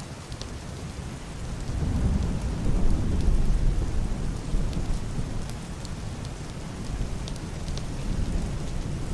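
Heavy rain on a wooden roof and glass window, with scattered drop ticks, and a deep, muffled distant thunder rumble that swells about a second and a half in, peaks around three seconds and slowly fades.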